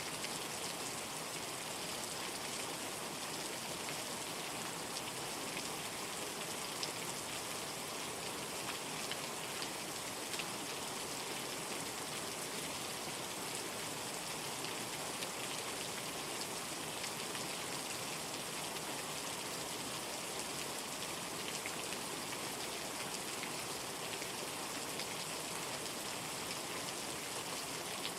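Steady rainstorm: an even hiss of rain falling, with the odd sharper drop tick now and then.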